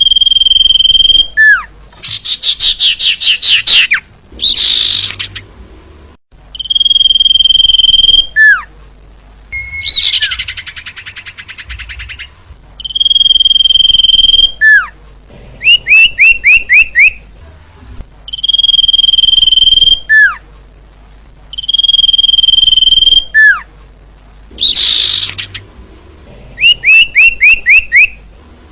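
Common iora (cipoh, sirtu) singing loud, repeated phrases: long steady whistles, each about a second and a half and ending in a falling slur, alternate with fast trills and runs of about five quick rising notes. The same sequence comes round again about every ten seconds.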